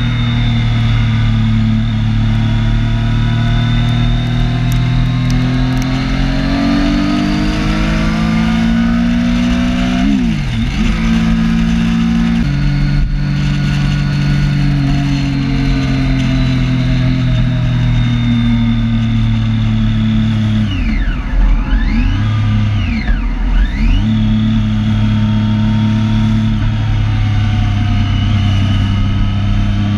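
Triumph Street Triple 675's inline three-cylinder engine running at road speed, its pitch slowly rising and falling with the throttle. Its pitch drops sharply and climbs back quickly about ten seconds in, and twice more about two-thirds of the way through.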